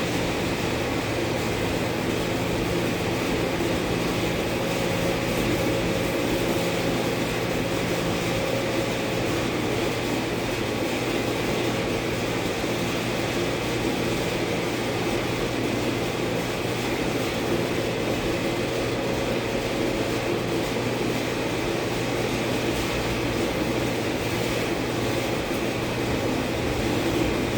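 A steady machine drone with a constant low hum, unchanging throughout.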